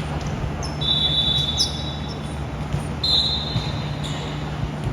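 Gym ambience during a volleyball match: a steady low hum and room noise, with two high squeaks, one about a second in and lasting over a second, another about three seconds in.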